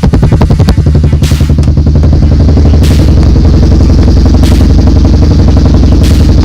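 ATV engine running loudly through an aftermarket Big Gun slip-on exhaust, just after a start without choke; it pulses unevenly for about two seconds, then settles into a steady idle. The slip-on joint has been freshly sealed against an exhaust leak.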